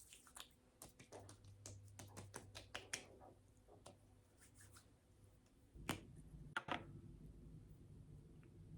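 A quiet run of small clicks and taps, then two or three louder knocks about six seconds in, after which a low steady hum sets in.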